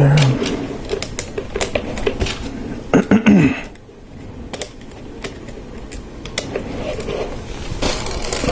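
Plastic Lego Technic pieces clicking and rattling as they are handled and pressed together, a rapid, irregular run of small sharp clicks.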